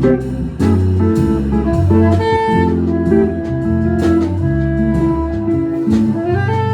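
Jazz quartet playing live: long held melody notes over a moving bass line, with drums and cymbal strikes keeping time.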